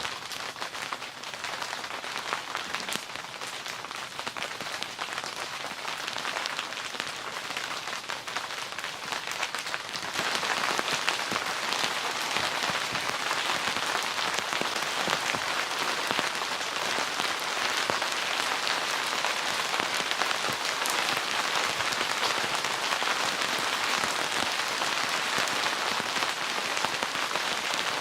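Steady rain falling, with many individual drops ticking through it; it becomes heavier and louder about ten seconds in.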